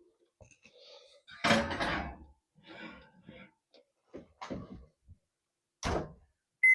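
Kitchen oven door and rack clattering shut about a second and a half in, then a few lighter knocks and a sharp knock near the end. A short electronic beep follows as the oven timer is set.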